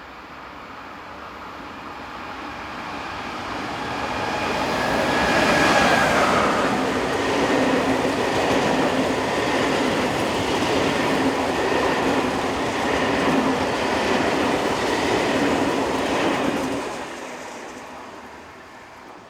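Renfe Class 251 electric locomotive passing downhill at the head of a train: it approaches, is loudest about six seconds in, with a tone that falls in pitch as it goes by, and its wagons run past for about ten seconds before the sound fades away.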